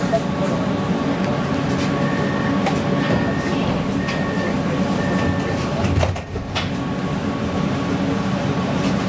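Inside a PESA Fokstrot low-floor tram running along the line: a steady rumble of wheels and running gear with a constant thin whine. About two seconds in come four short electronic beeps, a second apart.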